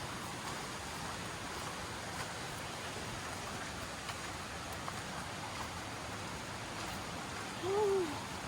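Steady rushing of a forest stream. Near the end, a short pitched call rises and falls once.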